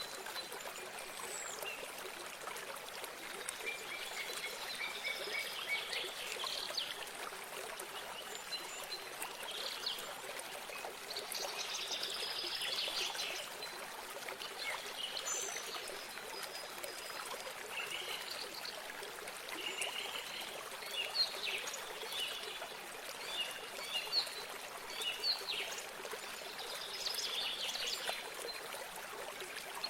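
A small stream trickling steadily, with several birds chirping and trilling over it throughout, in short high calls and quick runs of notes.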